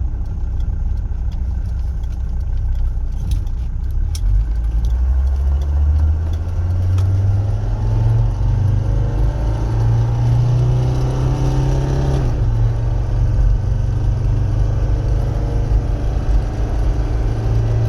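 1984 Mercedes-Benz 300D's five-cylinder diesel engine pulling the car away under acceleration: its low drone rises in pitch from about four seconds in, drops briefly around twelve seconds in, then holds steady at cruising speed, heard from inside the cabin.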